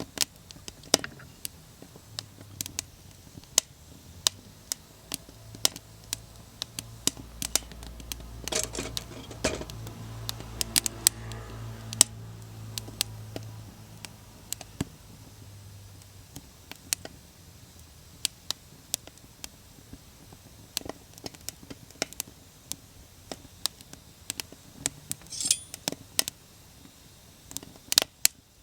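Wood fire crackling in a homemade wood stove, with frequent irregular snaps and pops. A low hum swells in the middle and fades away.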